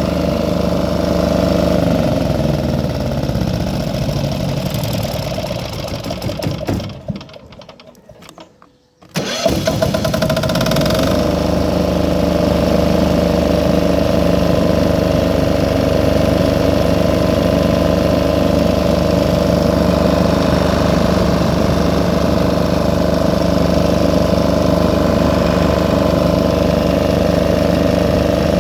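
Generator engine running, then slowing and dying away to near silence about seven seconds in; a couple of seconds later it is started again, catches at once and runs steadily.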